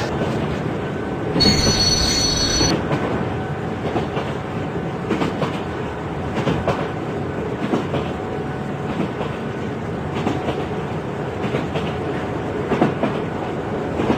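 A train running along the track with a steady rumble and repeated clacks from the wheels over the rails. About one and a half seconds in there is a brief high-pitched wheel squeal.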